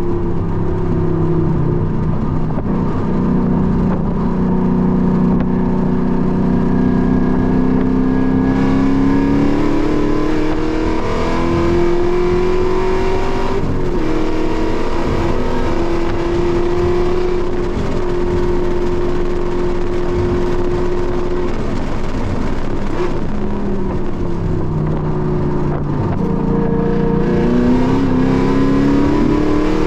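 Car engine heard from inside the cabin at speed on a race track: it pulls up steadily in pitch under acceleration, shifts about halfway through, holds a steady pitch, drops away as the car slows for a corner, then climbs again near the end.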